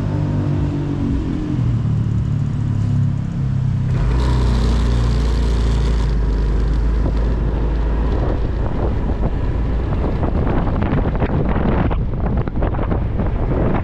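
Motorcycle engine running under way, its pitch stepping up in the first few seconds. From about four seconds in, loud wind rush and buffeting on the microphone drowns out the engine as the bike rides at speed.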